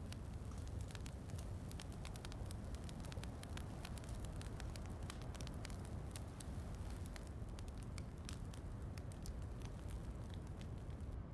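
Wood fire crackling with frequent small sharp pops, over a steady bed of rain.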